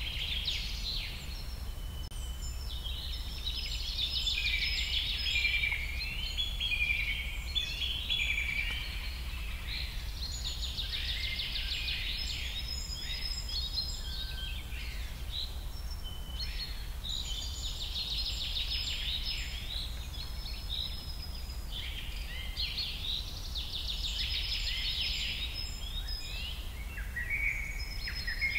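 Birds chirping and singing without pause, with many overlapping rapid trills and short rising and falling whistles, over a steady low hum.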